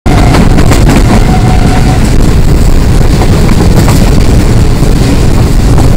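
Loud, steady rumble and clatter of a passenger train's coaches running at speed, heard from an open coach door, with rail noise and rushing air.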